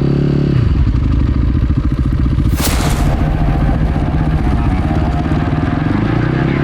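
Enduro motorcycle engine running under way: the revs rise and then drop about half a second in, and the engine then pulls steadily. A brief rush of noise comes a little before the middle.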